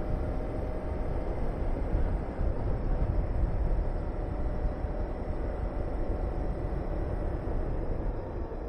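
Honda VTR250's V-twin engine running under way, mixed with steady wind rushing over the microphone, easing off slightly near the end.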